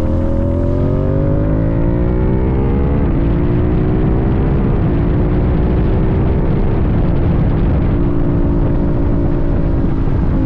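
Sportbike engine accelerating: its pitch climbs for about three seconds, drops sharply at an upshift, steps up a couple more times, then holds steady at cruise. Heavy low wind rush runs underneath.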